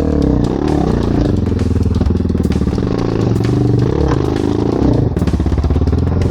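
Enduro dirt bike engine revving up and down as it is ridden up a rock step, with scattered clatter.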